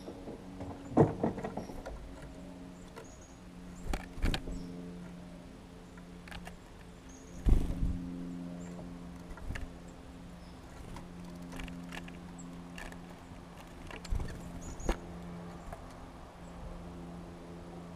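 Birds at a feeder: several sharp taps and knocks, the loudest about a second in and again near the middle, with faint short high chirps, over a steady low hum.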